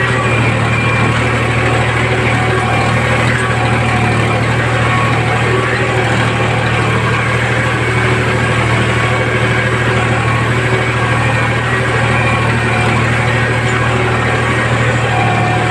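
Tractor's diesel engine running steadily at a constant speed, with a strong low hum.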